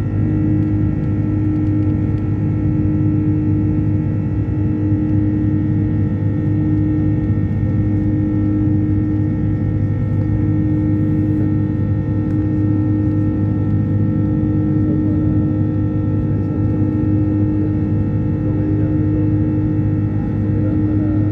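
Rolls-Royce Trent 700 jet engines of an Airbus A330 heard from inside the cabin during the takeoff and climb-out, running steadily: a constant rumbling drone with several steady whining tones layered over it.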